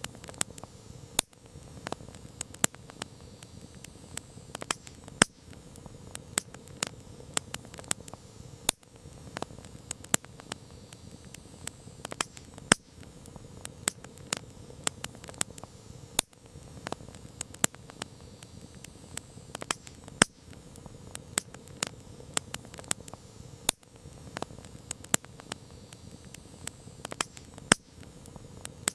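Campfire crackling: irregular sharp pops and snaps, several a second with an occasional louder crack, over a low steady hiss of burning wood.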